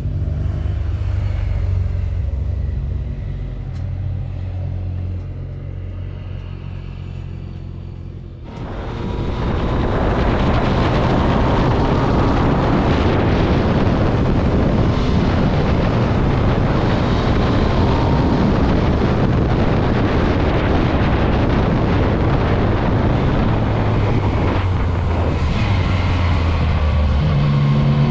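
Motorcycle engine running at low revs. About eight seconds in, a loud broad rushing sound sets in suddenly as the bike gets under way and stays. Near the end the engine revs rise.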